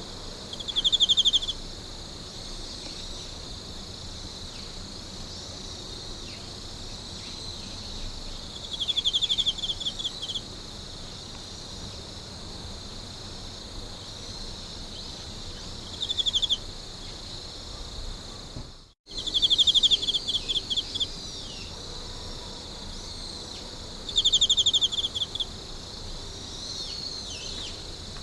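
Night insect chorus: a steady high-pitched shrill of many insects, with a nearer insect breaking in every several seconds with a loud burst of rapid pulsed chirps, five times in all. The sound drops out for a moment about two-thirds of the way through.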